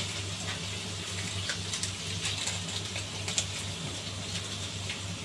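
Pork large intestine with chilies and onion sizzling and bubbling in its sauce in a pan, a steady hiss with scattered crackling pops, over a constant low hum.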